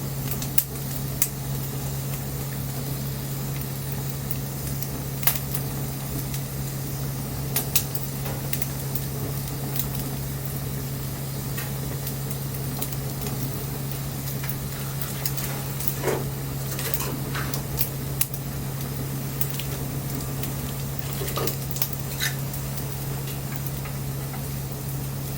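Wood bonfire burning with a steady hiss, broken by sharp crackles and pops every second or two. Twice it gives a short falling whistle, and a steady low hum runs underneath.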